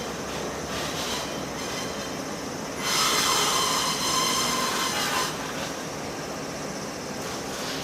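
Limestone freight train rolling slowly, with a steady rumble of the wagons. A loud, high metallic wheel squeal starts about three seconds in and lasts for roughly two and a half seconds.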